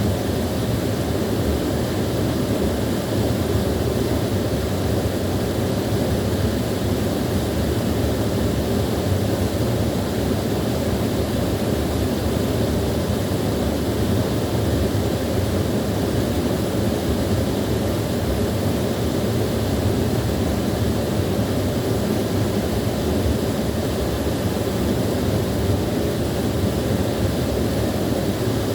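Small waterfall with water pouring and splashing in a steady, low, even rush.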